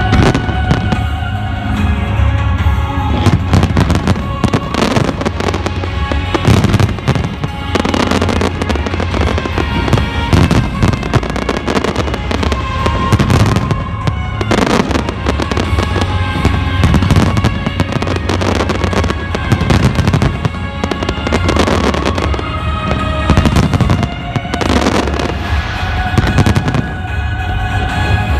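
Fireworks bursting in rapid, continuous succession, many bangs and crackles every second, over loud music.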